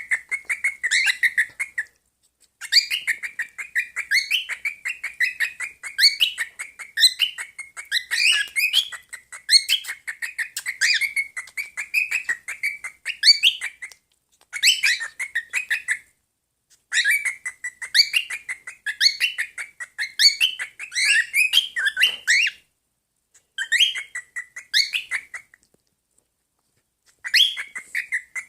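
Pet birds chattering: a dense, continuous stream of rapid chirps and warbles that cuts off abruptly to silence a few times before starting again.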